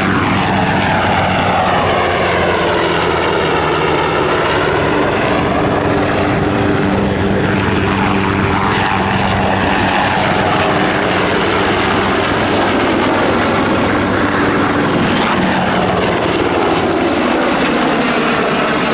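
Sikorsky UH-60 Black Hawk helicopters flying a formation demonstration: steady main-rotor beat and twin-turboshaft whine. The sound sweeps up and down in pitch over several seconds as the aircraft move past.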